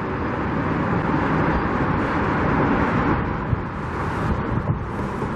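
Steady road-traffic noise, with wind rumbling on the microphone.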